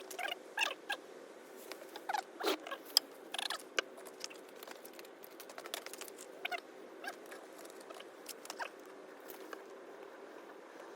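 A small fire crackling and popping on a Swedish torch log, fed with paper and fire-starting gel. The pops come thickly in the first few seconds, then thin out to occasional snaps.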